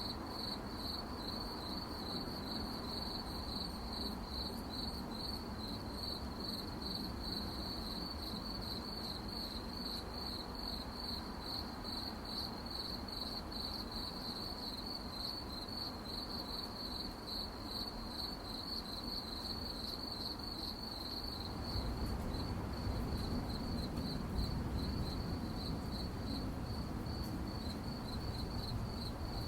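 Crickets chirping at night in a steady, evenly pulsed high trill. A low background rumble grows louder about three quarters of the way through.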